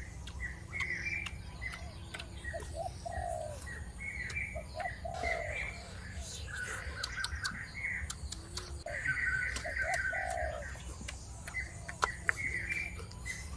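Wild birds calling: a short low call repeated in groups of two or three every few seconds, with higher chirping between. There are a few sharp clicks over a steady low background noise.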